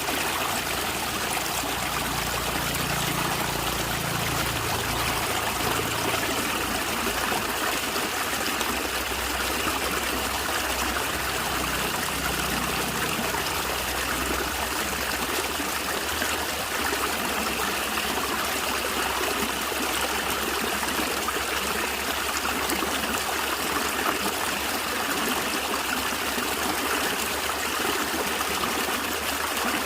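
Stream water running and trickling steadily, with a gurgle.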